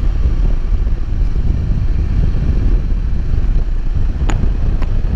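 Wind buffeting the microphone in a loud, steady low rumble, with two short sharp clicks near the end.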